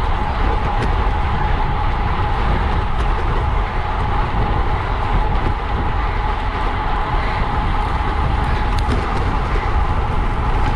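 Wind rushing over the microphone of a camera carried on a bicycle at racing speed, a loud, steady rumble with a constant high hum running through it and a few faint ticks.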